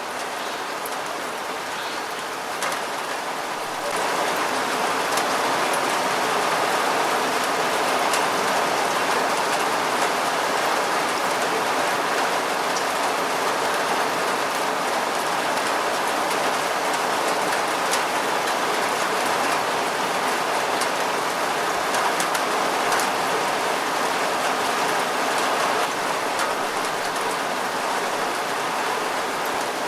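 Steady rain falling, with the ticks of single drops striking a surface scattered through it; the rain gets louder about four seconds in and holds there.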